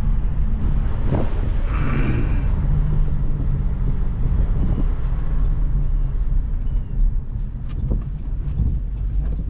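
Car driving on the road: a steady low engine drone with road noise, and a brief hiss about two seconds in.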